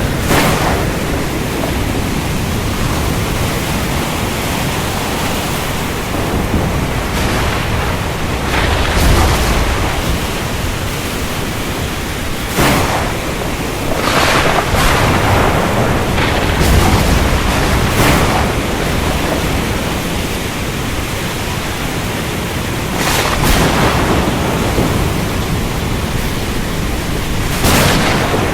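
Storm at sea: a steady, loud wash of surf and wind, broken by several sharp cracks and low rumbles of thunder.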